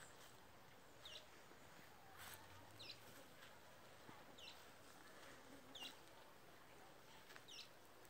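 A bird calling over and over, faintly: a short, high, falling chirp about every second and a half, five times.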